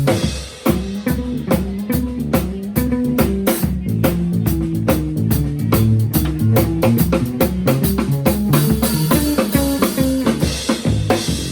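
A live rock band playing: drum kit keeping a steady, driving beat under bass guitar and guitar, with a brief drop just after the start before the full band comes back in.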